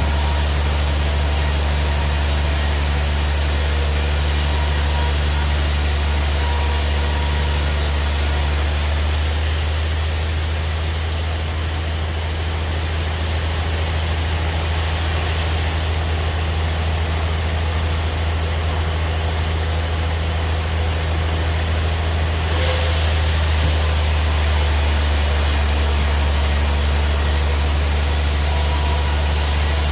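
Band sawmill machinery running steadily, a constant low hum under a broad mechanical noise; the high hiss dips for a stretch in the middle and comes back sharply about three-quarters of the way through.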